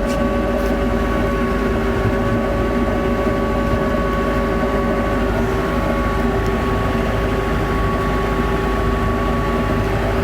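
TYM 574 tractor's diesel engine running at a steady speed.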